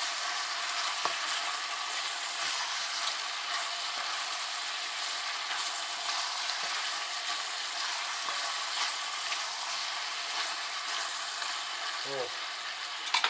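Chicken, onion and tomatoes sizzling steadily in a hot oiled kazan while they are stirred, with faint scattered clicks of the spoon against the pot.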